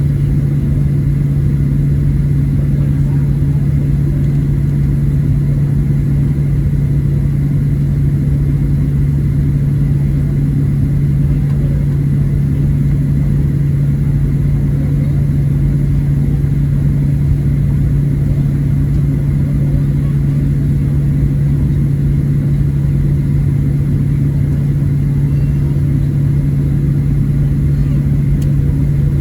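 Steady low hum and rumble heard inside the cabin of a Boeing 737-700 as it taxis, its CFM56-7B engines at taxi power along with the cabin air.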